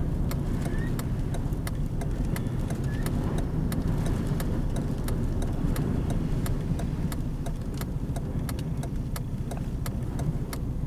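Car driving at speed, heard from inside the cabin: a steady low road and engine rumble, with sharp ticks several times a second.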